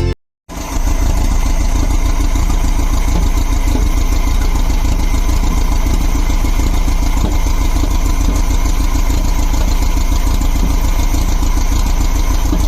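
1971 Volkswagen Beetle's air-cooled flat-four engine running steadily at idle after being revived from storage, with a strong low rumble. It cuts in abruptly about half a second in.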